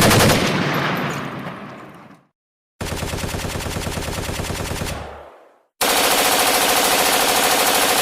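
Sound-effect clips of gunfire played one after another with short silences between. First a loud burst that dies away over about two seconds, then a rapid, even string of machine-gun fire for about two and a half seconds, then another rapid machine-gun string starting near six seconds in.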